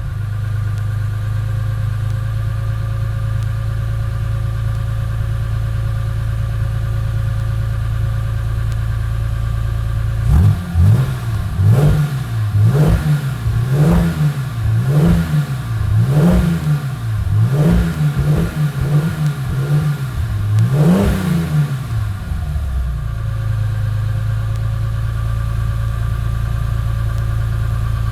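Chevrolet Opala's 4.1-litre gasoline straight-six with a six-into-two exhaust, idling steadily. From about ten seconds in it is revved about ten times in quick succession, each rev rising and dropping back. It then settles to an even idle again.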